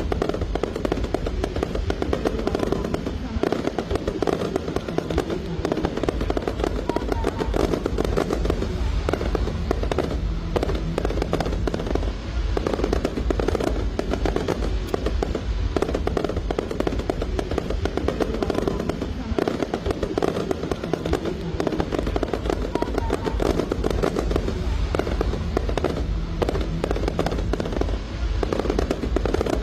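Aerial fireworks display: a dense, continuous barrage of bangs and crackles from bursting shells, with music playing underneath.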